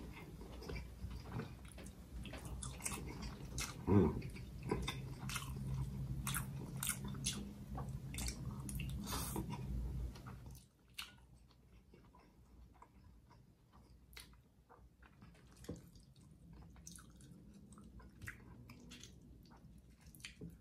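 Close-miked eating sounds: chewing and biting on a Malay rice meal, with wet mouth clicks throughout. A steady low hum sits under the first half and stops suddenly about halfway through, and there is one louder knock about four seconds in.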